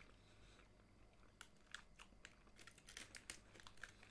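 Faint crunching of a chocolate-filled cookie being chewed: short, irregular crackles, thicker in the second half.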